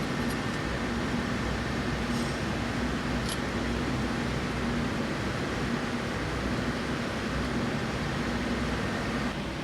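Steady mechanical hum with an even rushing noise, like a running fan or machine, with one faint click about three seconds in.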